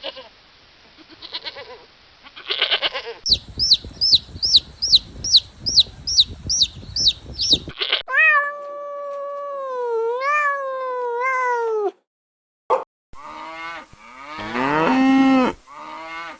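A string of different farm-animal calls cut one after another: first a few calls, then a run of about ten quick, high, falling squeaky calls, then long wavering calls, and near the end a drawn-out call that rises in pitch.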